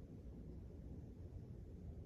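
Quiet room tone: a faint, steady low rumble with no distinct sound events.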